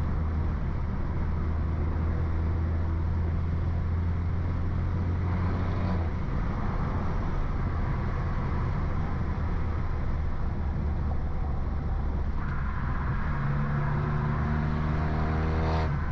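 A BMW F30 328i's tuned turbocharged four-cylinder engine and exhaust, with a downpipe and stage 2 tune, running while the car is driven. It holds a steady low drone at first, then near the end the car accelerates and the engine note climbs in pitch.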